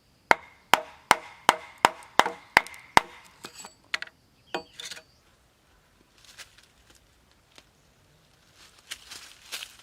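Hand tool chopping into wood: about eight sharp strikes in quick succession, each with a short ring, over the first three seconds. A few lighter knocks follow, then softer scraping sounds near the end.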